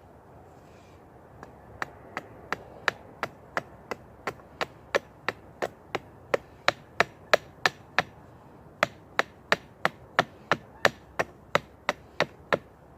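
Rapid light chopping strikes into a stick of wood while notching it, about three sharp knocks a second, with a short pause a little past the middle.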